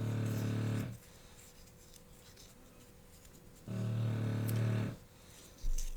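A puppy snoring: two drawn-out snores about four seconds apart, each a steady low note lasting about a second. A short low thump comes near the end.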